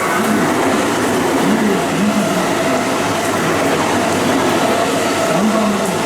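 JR West electric train running along the platform at Suita Station: a steady, loud noise of wheels on rail and traction motors.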